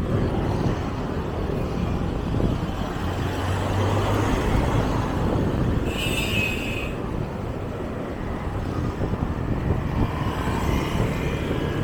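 Street traffic noise: a steady low rumble of passing vehicle engines. About six seconds in there is a brief high-pitched tone lasting about a second.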